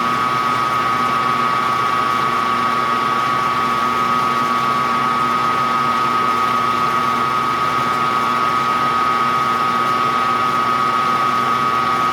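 Milling machine spindle running steadily, a constant whine over a mechanical hum.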